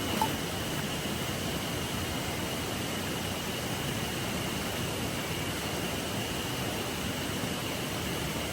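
River water flowing, a steady even rushing, with a single short click just after the start.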